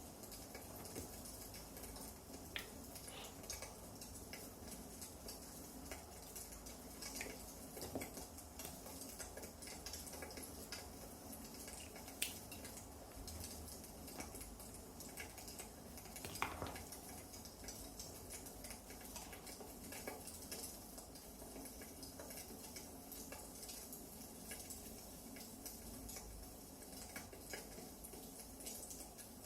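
Wood fire burning in a fireplace: a steady faint hiss with scattered small crackles and a few louder sharp pops.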